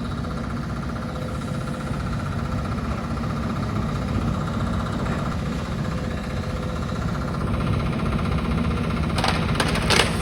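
Demolition excavator's diesel engine running steadily, with a few sharp cracks near the end as demolition debris is broken.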